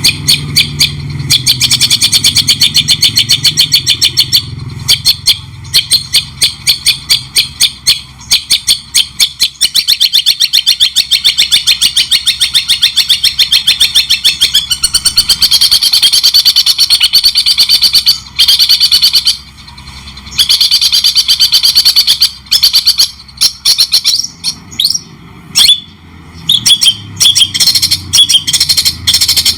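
Songbird masteran recording: a bird singing a fast, continuous chattering song of rapidly repeated high notes, broken by a few short pauses in the second half.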